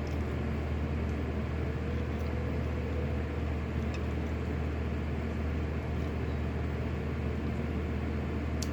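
Electric fan running steadily: an even low hum with a whir of air.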